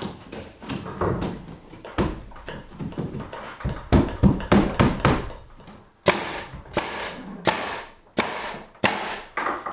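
Knocking and thudding on pine boards, with heavy dull thuds around the middle, then a run of six sharp, evenly spaced hammer blows about every 0.7 s in a small wooden room.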